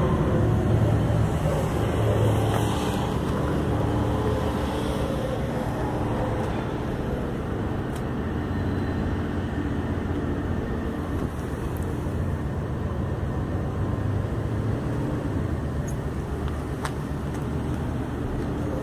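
2015 BMW M4's twin-turbo straight-six idling steadily, with no revving.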